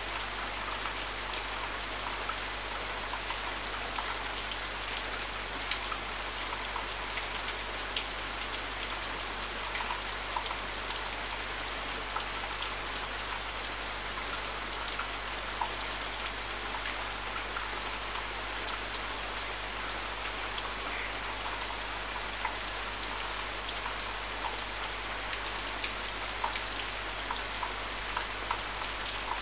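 Steady rain falling, with scattered sharper drops tapping close by.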